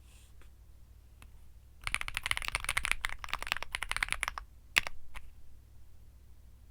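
Typing on a Womier SK75 mechanical keyboard with Womier Mint Blizzard switches. After a single keystroke, a quick run of keystrokes lasts about two and a half seconds, followed by two louder single key presses, then a pause.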